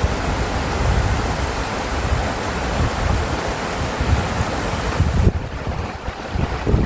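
Rushing water of a mountain stream, with wind buffeting the microphone in irregular low rumbles. The high hiss of the water drops back a little past five seconds in.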